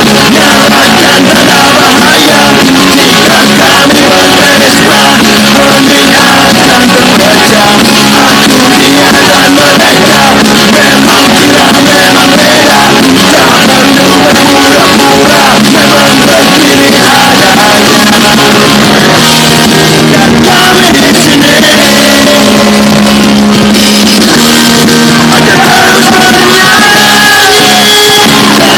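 Loud, heavily compressed rock song with distorted electric guitars, drums and a sung vocal.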